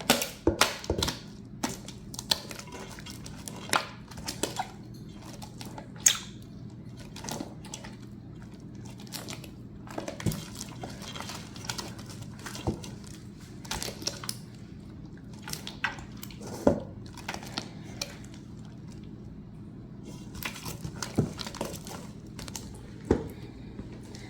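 Glue-based slime being worked by hand while it is activated: irregular wet squelches, sticky pops and clicks.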